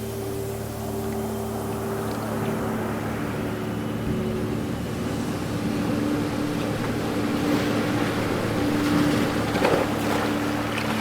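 Ocean waves washing ashore, the wash swelling to a louder surge about nine to ten seconds in, over a steady low droning hum.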